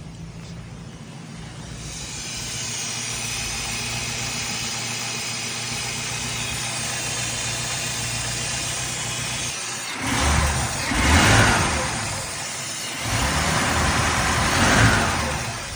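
1950 Packard straight-eight engine idling just after a cold start, then revved up twice, each rise easing back to idle.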